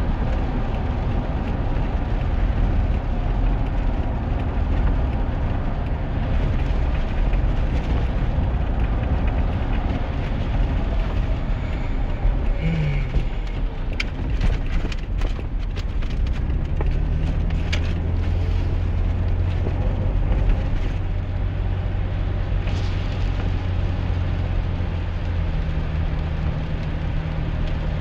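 Steady engine and tyre noise inside the cab of a 2001 GMC Sierra pickup on the move, with a steady low engine hum that comes in about halfway through. A scatter of sharp clicks is heard around the middle.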